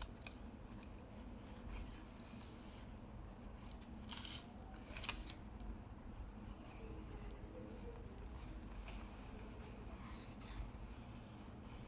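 Faint scratching and rubbing of a hand tool working on paper, with a few brief sharper strokes about four and five seconds in.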